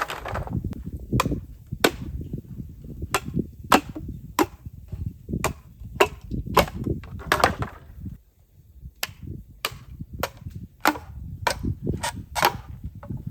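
Bamboo burning in an open fire: irregular sharp cracks and snaps over a steady low rumble of flames, with a brief lull about eight seconds in.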